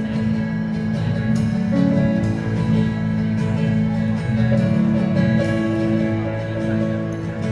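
Live indie-americana band playing an instrumental passage, led by strummed guitar.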